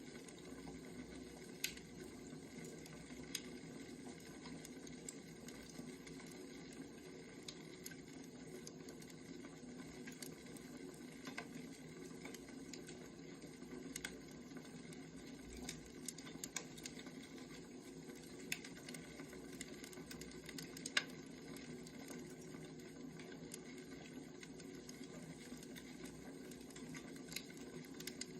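Wood fire crackling: irregular sharp pops and snaps every second or few over a steady low rush of burning.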